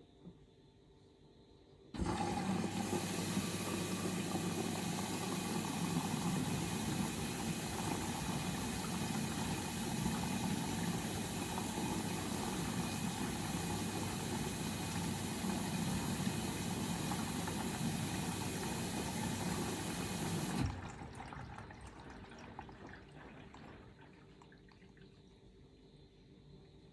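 Bosch Serie 4 washing machine's water inlet filling the drum for a rinse, a steady rush of water that starts suddenly about two seconds in and stops abruptly after about eighteen seconds, leaving a fading trickle.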